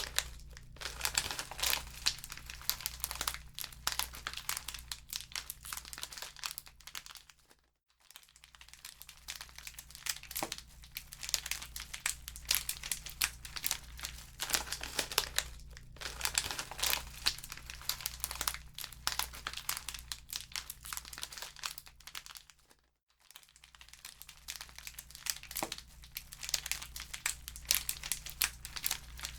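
Wood fire crackling in a fireplace: dense, irregular pops and snaps over a steady low rumble. The sound cuts out briefly about eight seconds in and again about twenty-three seconds in.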